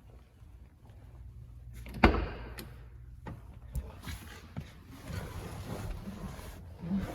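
A truck door shutting with a solid thump about two seconds in, followed by lighter knocks and a stretch of rustling, over a low steady hum.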